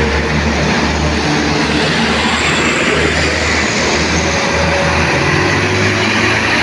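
Heavy truck engine running with tyre and road noise: a steady low drone under a loud, continuous roar.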